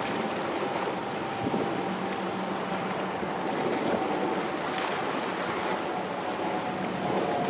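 High-speed ferry M.V. Nansha No.68 under way: a steady engine hum over the rush of water and wind.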